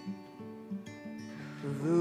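Soft plucked acoustic guitar background music. Near the end a voice starts a low "voo" hum, rising in pitch as it begins, for a vagus-nerve calming exercise.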